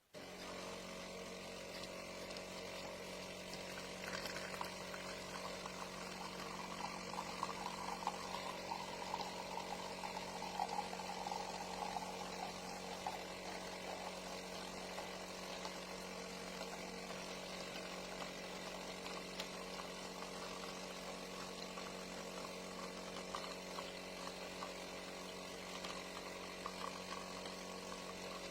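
Automatic espresso machine running: a steady mechanical hum with the sound of liquid pouring, starting abruptly.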